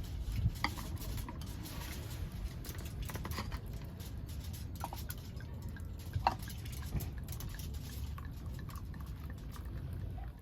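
Beer being poured and fizzing, with many small scattered ticks over a steady low rumble.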